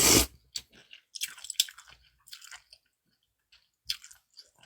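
A person chewing and biting close to the microphone while eating cold noodles and fried dumplings: a short loud rush of noise at the very start, then scattered crisp, crunchy chewing sounds.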